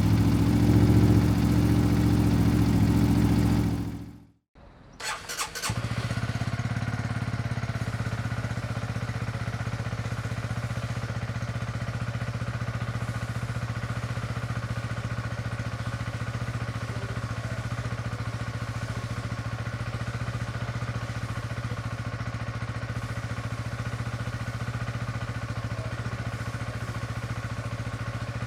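A loud, steady sound cuts off suddenly about four seconds in; then the Honda CB125R's single-cylinder four-stroke engine is started with a few short bursts about five seconds in, catches, and settles into a steady idle.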